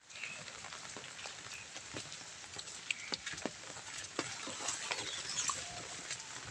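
Heavy rain falling steadily, with many irregular sharp drip taps of drops striking a hard surface.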